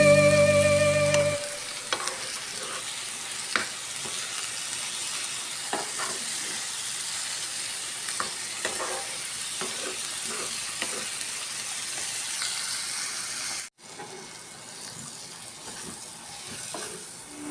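Food sizzling in a frying pan, with scattered clicks of a utensil against the pan as it is stirred. Background music fades out about a second in, and after a brief cut near the end the sizzle goes on more quietly until the music comes back.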